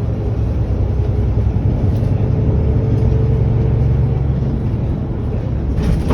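Bus engine running, a steady low rumble with a faint hum that comes in about a second in and fades out near the end.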